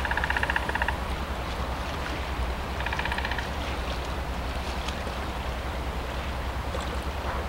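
Distant CN freight train's diesel locomotive rumbling steadily along, with wind noise. Two brief rattling trills cut in, one at the start and a shorter one about three seconds in.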